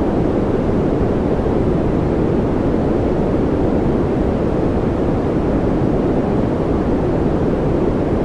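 Steady white-noise track: an unbroken hiss, weighted deep, with most of its strength in the low and middle range and little at the top, not changing at all.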